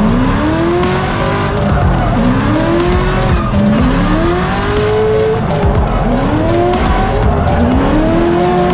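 Drift car engine revving in repeated rising sweeps, about five times, with tyres squealing as it slides, under background music.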